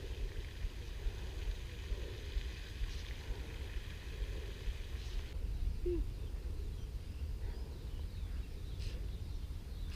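Faint outdoor pond ambience: a steady low rumble with a few faint short calls, one about six seconds in and more near the end.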